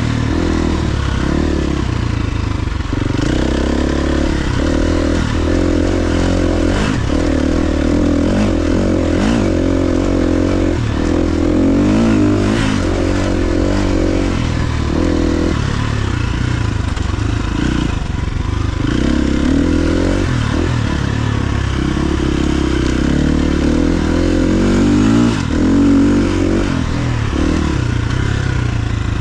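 KTM XC-F 350 single-cylinder four-stroke dirt bike engine running under way on a trail ride, its pitch rising and falling repeatedly with the throttle.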